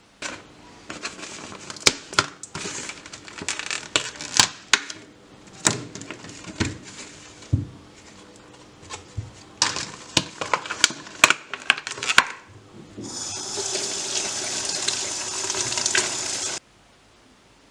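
Sink sounds: a run of sharp clinks and knocks for about twelve seconds, then a water tap running steadily for about three and a half seconds and shut off suddenly.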